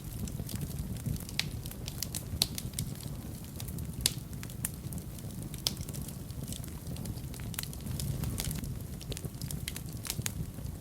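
Fire burning in a fireplace, crackling with frequent, irregular sharp pops over a low steady rumble.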